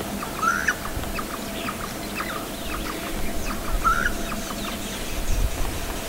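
Wild birds calling: a run of short chirps, with two scratchy rising calls about half a second in and again about four seconds in, over a faint steady hum.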